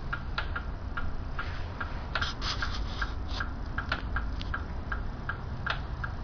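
Car engine idling with a rapid light ticking from a hydraulic valve lifter, about three or four ticks a second over a steady low hum. The owner takes the lifter noise for normal.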